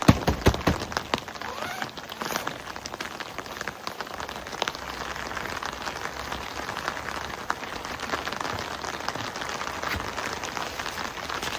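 Heavy rain falling, a steady hiss with many sharp drops tapping on a surface close by; a quick run of louder taps comes in the first second.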